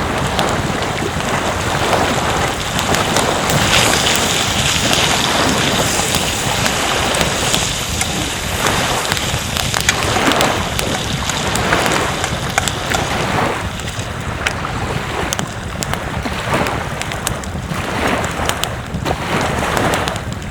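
Wind buffeting the microphone over breaking surf, a loud, rushing noise that swells and fades in gusts, with scattered small crackles.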